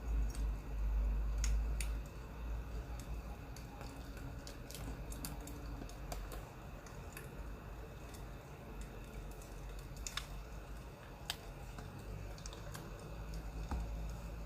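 Crackling wood fire: irregular sharp pops and snaps scattered over a low steady rumble.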